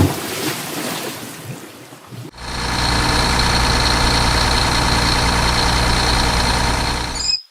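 A steady engine idling, starting suddenly about two seconds in after a fading noise and running evenly until it cuts off abruptly near the end.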